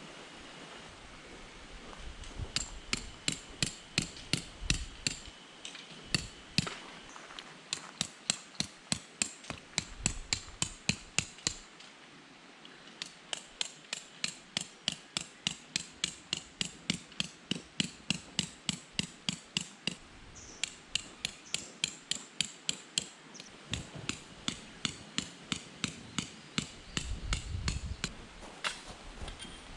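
Tent pegs being hammered into gravel ground with a peg hammer, metal striking metal. Quick, even blows at about three to four a second come in runs of several seconds with short pauses between.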